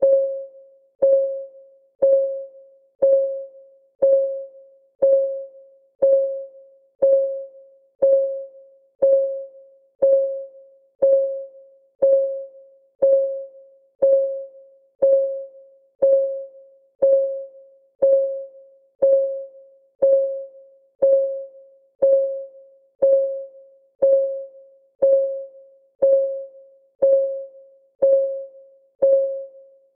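Countdown timer's ticking sound, one tick a second, each a sharp click with a short pitched ring that fades quickly.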